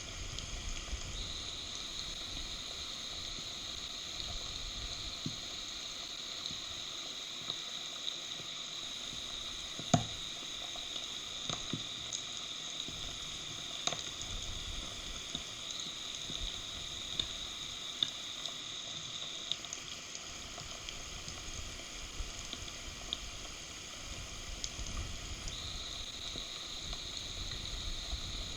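Steady rain hiss with scattered sharp taps of drops, the loudest about ten seconds in, and low wind rumble near the start and end.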